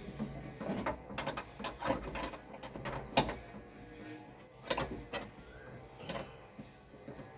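Irregular clicks and knocks of hand tools and metal parts being handled while working inside a car door, the sharpest about three seconds in and again near five seconds.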